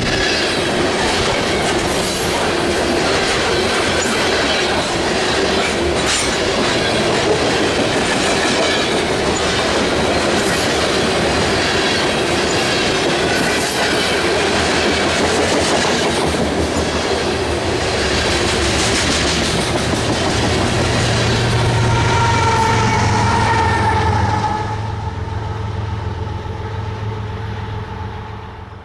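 Freight train rolling past, its wheels clacking over rail joints in a steady, loud rumble that fades away over the last few seconds.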